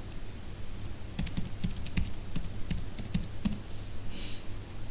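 Typing on a computer keyboard: a quick run of about a dozen keystrokes that starts about a second in and stops shortly after the middle.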